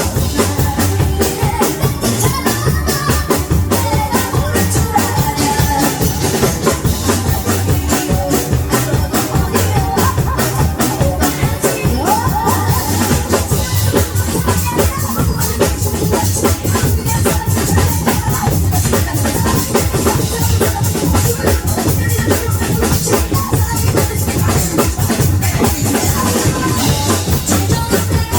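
Loud amplified song with a busy, steady drum-kit beat: a drum kit played live along to a backing track.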